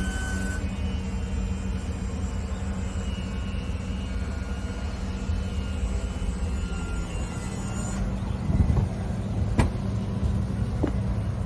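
Yamaha UF25 boat's engine running steadily with a low, even hum. A sharp click about nine and a half seconds in, and a fainter one a second later.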